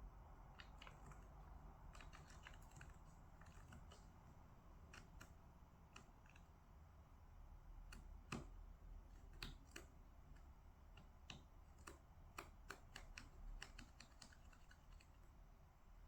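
Faint, irregular typing on a computer keyboard, a scatter of soft key clicks that comes thicker in the second half, over a low steady room hum.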